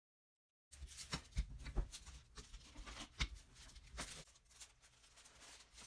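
Faint kitchen handling sounds at the stove: a few light knocks and taps with soft rustling, starting abruptly just under a second in.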